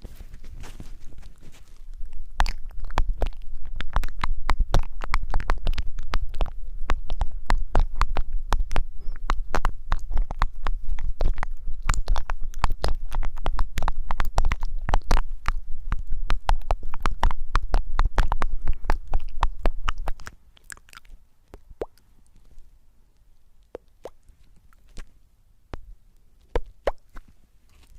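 Close-miked ASMR crackling and scratching, dense fast clicks over a low rumble of rubbing on the microphone. It stops suddenly about twenty seconds in, leaving only scattered soft clicks.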